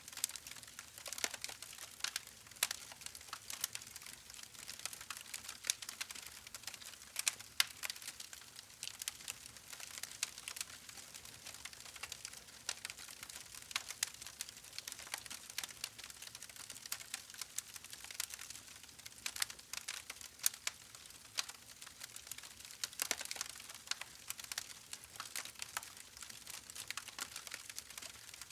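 Wood fire crackling in a fireplace: many small irregular snaps and pops over a faint hiss, with occasional louder cracks.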